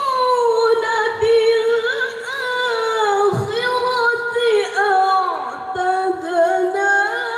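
Quran recitation (tilawah) by a single high-pitched voice, sung in long melismatic phrases with wavering ornamental runs and slides in pitch.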